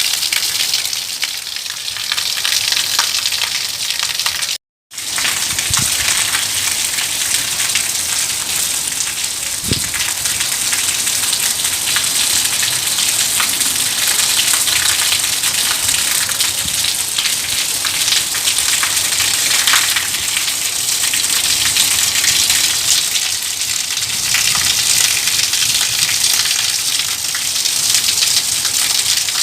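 Steady rain falling, a dense hiss with scattered ticks of individual drops. The sound cuts out completely for a split second about five seconds in.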